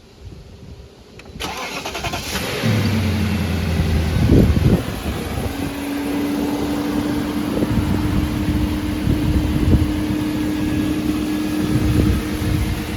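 A 2003 BMW 540i Touring's 4.4-litre V8 is cold-started. The starter cranks briefly about a second and a half in, then the engine catches and flares up in revs. It settles into a steady fast cold idle from about five seconds in.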